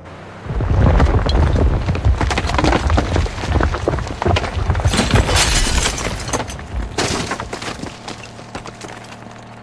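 A long crashing, breaking sound effect: a low rumble with many irregular cracks and impacts, loudest in the first seconds and fading toward the end.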